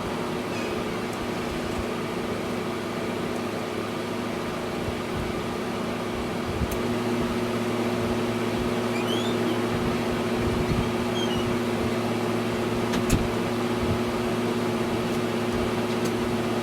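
Air conditioner running with its compressor on, a steady hum with a fan. It gets slightly louder about seven seconds in, and there are a couple of light clicks.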